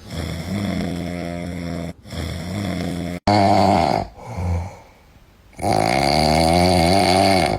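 A cat snoring loudly in several long, fluttering breaths with short gaps between them, some of them cut off abruptly.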